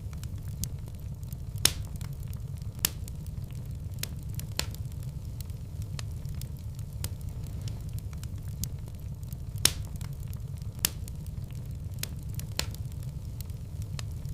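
Wood fire burning in a fireplace: a steady low rush of flames with irregular crackles and sharp pops, the loudest about two seconds in and again near ten seconds in.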